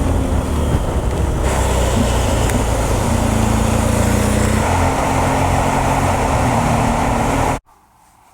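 BMW R1200GS motorcycle's boxer-twin engine running under way, with wind and road noise; the engine note steps in pitch a few times. It cuts off abruptly near the end.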